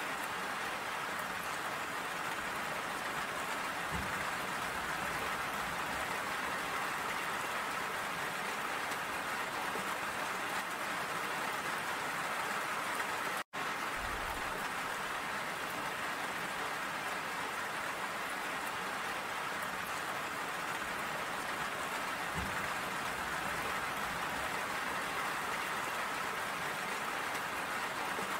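Steady rain falling. The sound cuts out for an instant about halfway through.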